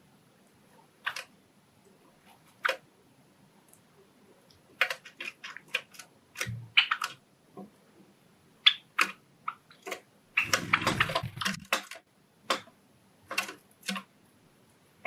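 Pet Java sparrows making irregular light taps and clicks, with a short rustling scuffle about ten seconds in.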